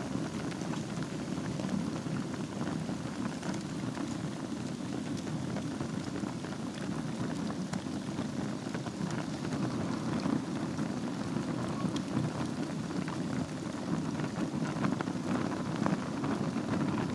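Wood fire burning in a fireplace: a steady low rush of flames with many small crackles and pops throughout.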